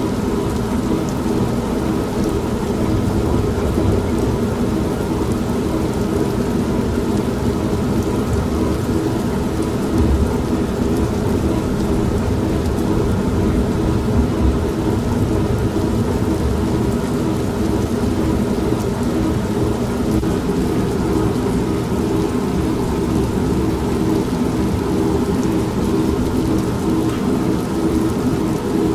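An old non-automatic washing machine's motor hums steadily, layered with steady rain and low rolling thunder. The thunder swells a few times, most strongly about 10 and 14 seconds in.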